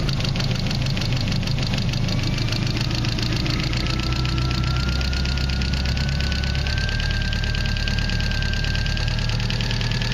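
1995 Mazda 626's 2.0-litre four-cylinder engine idling steadily, with a fast, even ticking and a faint whine that climbs slowly in pitch as the distributor is turned to advance the ignition timing, which is still well off its mark.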